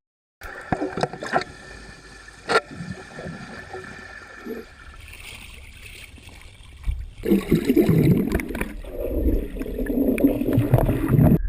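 Water churning and gurgling, with a few sharp knocks in the first seconds, then getting louder and heavier about seven seconds in; the sound cuts off abruptly at the end.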